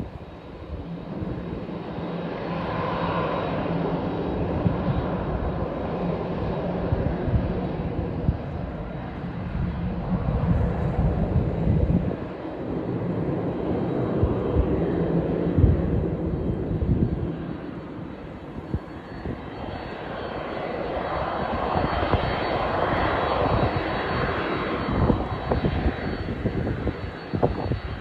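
Jet engines of a Boeing 767-300ER airliner running, the roar swelling twice, with gusty wind buffeting the microphone underneath.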